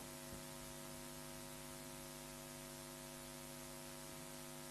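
Faint, steady electrical mains hum with several overtones over a light hiss.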